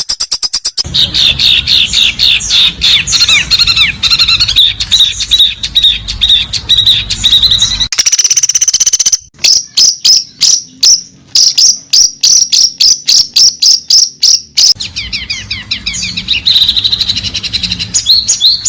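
Recorded songbird song of the kind played as training material for white-rumped shamas and other fighter birds: loud, rapid chattering chirps and trills, in several passages that change abruptly, with a fast run of sharp repeated notes in the middle.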